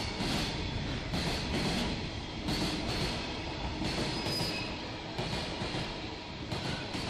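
Freight train wagons rolling past, wheels clacking over rail joints in a steady rhythm over a continuous rumble, with a thin high wheel squeal about four seconds in.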